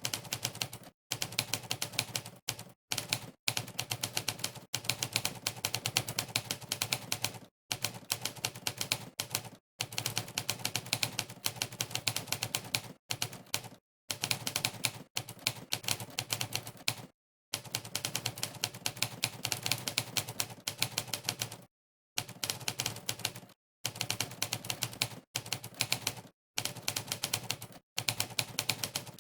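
Monkeytype's typewriter keystroke sound, one sampled typewriter key strike for each key typed, in fast runs of clicks broken by brief gaps of dead silence.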